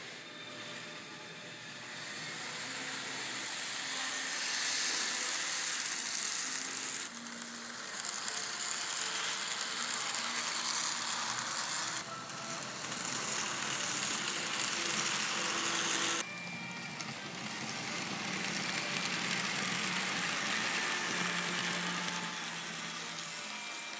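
N scale model trains running along the track: a steady rattling hiss of small wheels and motors, which changes abruptly three times.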